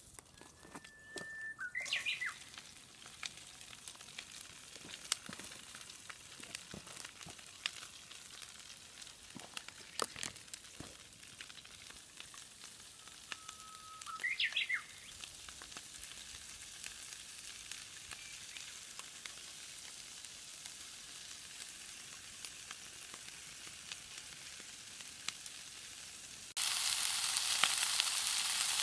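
Food frying in hot oil in a pan: a steady sizzle with scattered pops, turning suddenly louder near the end. Two short whistle-like calls, each a held note that sweeps upward, sound early on and about halfway through.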